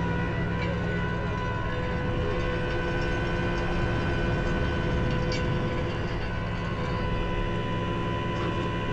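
Tow truck's engine running steadily at idle, a constant low drone with an even whine above it.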